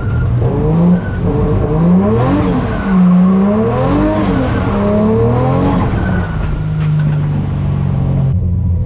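Toyota 1JZ inline-six engine in a Nissan 240SX, revving up and down repeatedly through a drift run, then holding a steady pitch for a second or two near the end.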